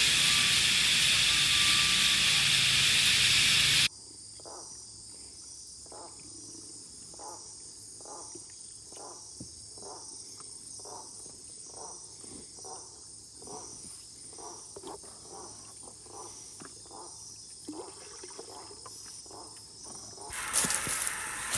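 A loud, steady hiss cuts off suddenly after about four seconds. It gives way to an insect chorus of steady high-pitched trilling, with short calls repeating a little under twice a second. About a second before the end, a loud, rough noise starts abruptly.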